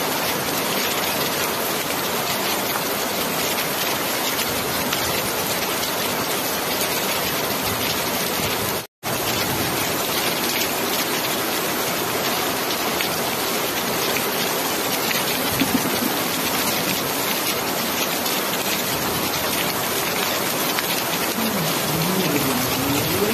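Steady rain falling, an even hiss of many drops, which cuts out for a split second about nine seconds in. A bird starts calling faintly near the end.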